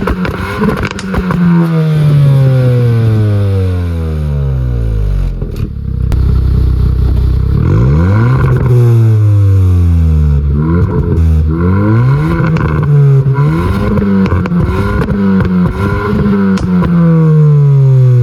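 Hyundai i20N's turbocharged 1.6-litre four-cylinder engine and exhaust revving up and dropping back several times, the pitch mostly falling away slowly. Pops and crackles come through as the revs drop.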